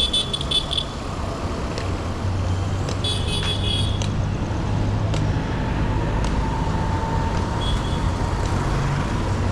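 Street traffic: vehicle engines running in a steady low rumble. Two short, high-pitched stuttering sounds cut through it, one at the start and one about three seconds in.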